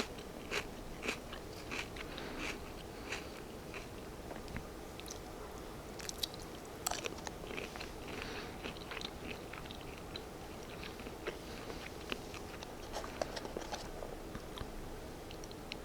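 Close-miked chewing with crisp crunches and mouth clicks, about one every half second or so for the first few seconds, then more scattered bursts of crunching.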